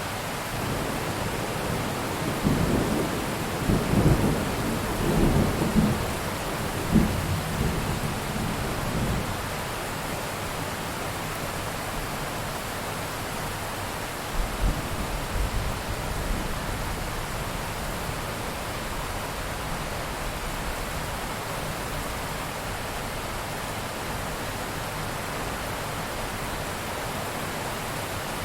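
Steady heavy rain hissing, with a long roll of thunder rumbling from about two seconds in to about nine seconds, and a shorter low rumble of thunder around the middle.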